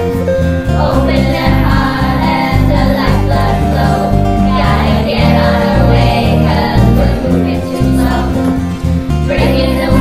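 A school children's choir singing with instrumental backing.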